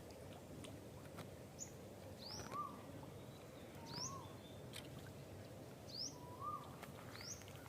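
Birds calling: a short, high, upward-sweeping whistle repeated every second or two, answered several times by a lower note that rises and falls, all faint over a soft steady background hiss.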